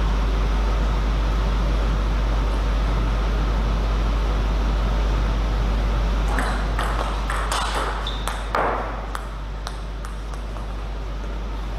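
Table tennis ball clicking back and forth off the bats and table in a rally, starting about six seconds in at roughly two to three hits a second, over a steady hall hum.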